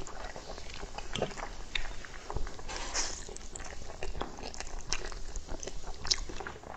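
Close-miked chewing of braised pig's trotter, heard as a run of short, irregular mouth clicks.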